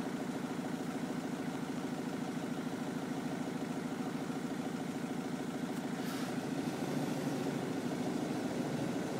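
Ford Mondeo's engine idling steadily, with a brief hiss about six seconds in.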